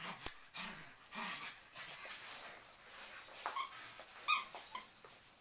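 A dog making short whimpering cries during tug play, the two loudest about three and a half and four and a half seconds in, with a sharp click near the start.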